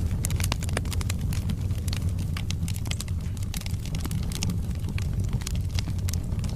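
Wood fire burning in a fireplace: a steady low rumble of flames with frequent sharp crackles and pops from the burning logs, several a second.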